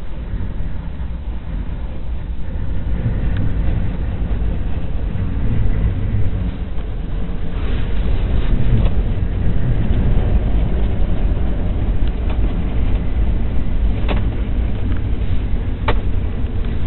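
Storm-force wind buffeting a Jeep, heard from inside the cabin as a loud, deep rumble that swells over the first few seconds, with a couple of sharp clicks near the end.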